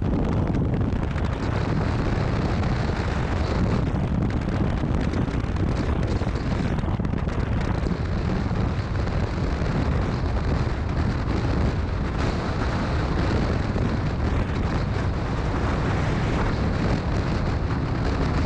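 Wind rushing over the microphone of a motorcycle on the move, with the bike's engine and road noise underneath, holding steady throughout.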